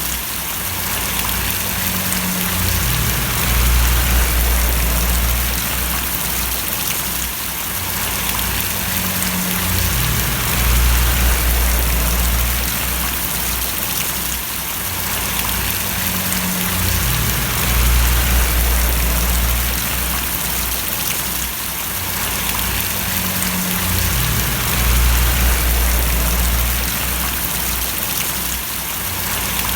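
Steady rain splashing with an even hiss throughout. Under it, a low hum swells and fades about every seven seconds.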